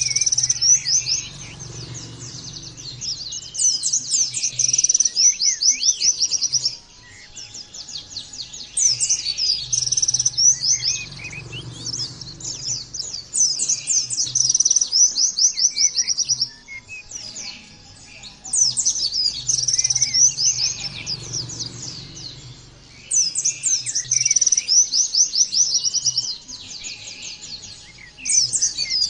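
White-eye (pleci) song: bouts of fast, high-pitched chattering trills lasting two to three seconds each, repeating every four to five seconds.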